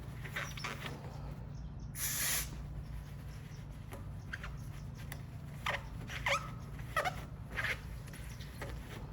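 A short hiss about two seconds in, then several brief squeaky scrapes in the second half, over a steady low hum: hand cleaning work on brake parts.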